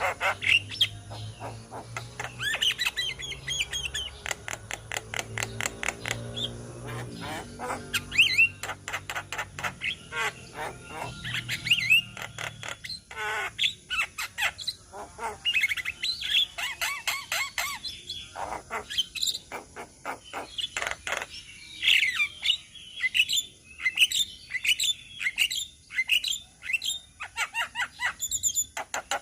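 A group of Javan mynas (jalak kebo) chattering together: rapid clicking notes mixed with short whistles and harsh squawks. A low hum underneath fades out about halfway through.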